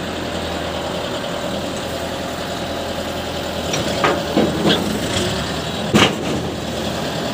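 Engine of a farm machine running steadily at idle, with a sharp knock about six seconds in.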